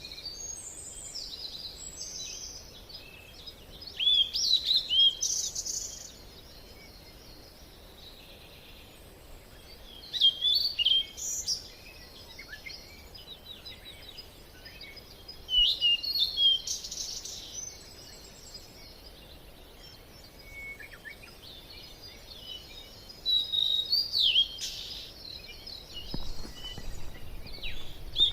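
Wild birds singing in forest, in repeated short phrases of quick whistled and chirping notes every few seconds, with quieter pauses between.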